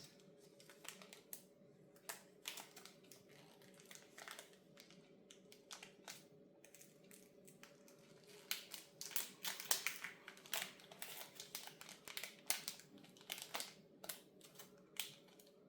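Plastic packaging crinkling and light clicks of small parts being handled, in irregular short bursts that grow busier about halfway through, over a faint steady hum.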